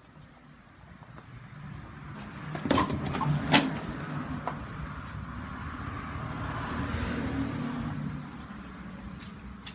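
Single-cylinder Kohler 321 engine of a John Deere 140 garden tractor running, freshly rebuilt. It builds up about two seconds in, with two sharp knocks around three seconds, runs steadily, then eases off near the end.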